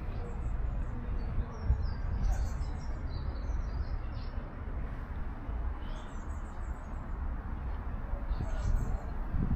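Small birds chirping in short high clusters, about two seconds in, around six seconds and again near eight and a half seconds, over a steady low rumble of outdoor ambience.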